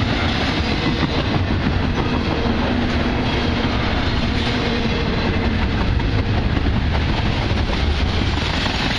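Freight train cars rolling past close by: a loud, steady low rumble with wheel clatter running through it.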